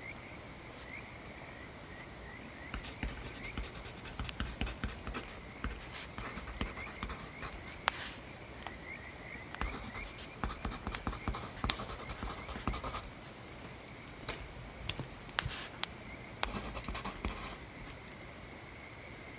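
Writing on paper: bursts of short scratchy pen strokes that come and go, over a crackling bonfire with occasional sharp pops.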